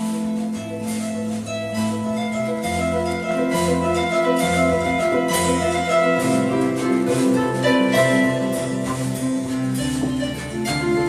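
Electric harp playing a melodic passage, plucked notes ringing over long-held low bass notes.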